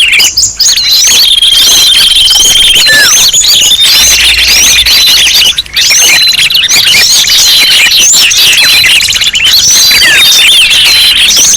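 Bird-lure recording: a dense, loud mix of many small birds chirping and calling at once, with rapid rising chirps over long held high whistles and trills.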